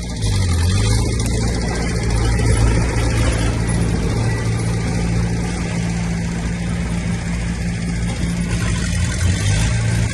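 Heavy diesel engine of earthmoving equipment, a bulldozer or dump truck, running steadily under load. It gets louder just after the start, and its pitch dips briefly twice.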